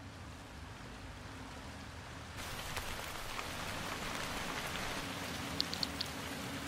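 Steady rain falling and dripping, growing louder about two and a half seconds in, with a few short high ticks near the end.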